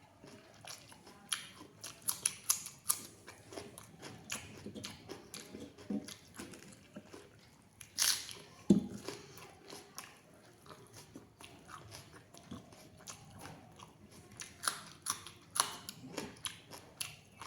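A person eating rice: chewing and wet mouth clicks at an uneven pace, with a couple of louder clicks about eight seconds in.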